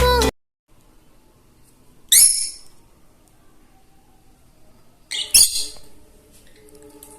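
Pet parrot calling with short, high, harsh squawks: one about two seconds in, then two in quick succession about five seconds in.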